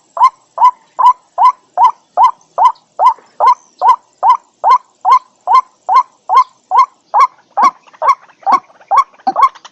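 White-breasted waterhen calling: a fast, even run of short notes repeated about two and a half times a second. From about three-quarters of the way in, lower notes mix in and the rhythm turns less even.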